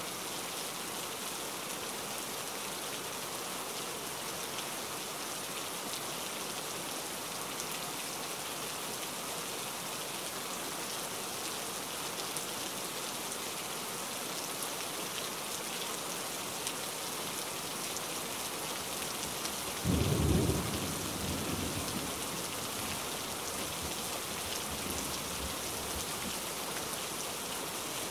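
Steady rain falling, an even hiss. About twenty seconds in, a sudden low rumble rises above it for about a second and then dies away.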